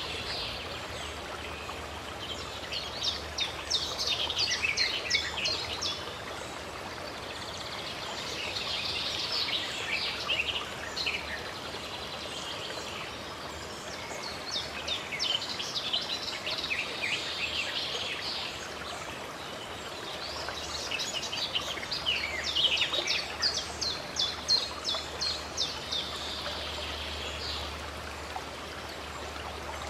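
Songbirds singing in bouts of quick, high trills every few seconds, over a steady rush of running water.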